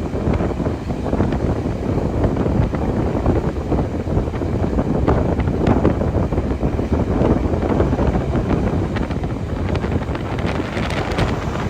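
Wind buffeting the microphone over a steady rumble from a moving train.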